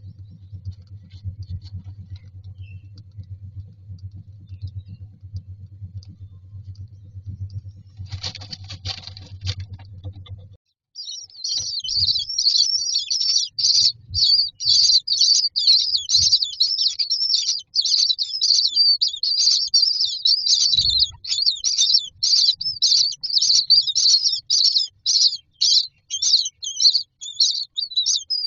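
Common myna chicks begging for food: a loud, fast, unbroken stream of high, harsh chirps that starts about eleven seconds in. Before it, a low steady hum and a brief rustle around eight seconds in.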